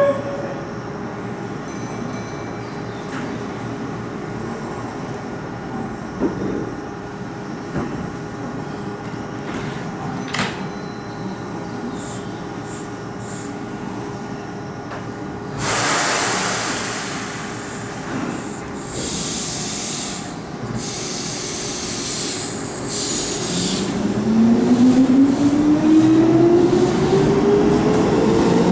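Keihan electric train at the platform: a sudden loud hiss of compressed air about halfway through, more short hisses, then the traction motors' whine rising steadily in pitch near the end as the train pulls away and picks up speed.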